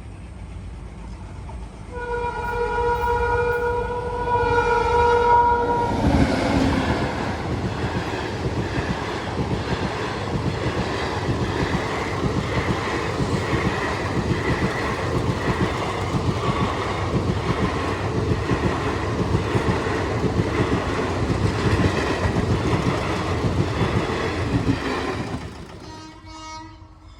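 Indian Railways express train sounding its horn for about four seconds, then passing at high speed with its wheels clattering over the rails for nearly twenty seconds before the sound drops away near the end.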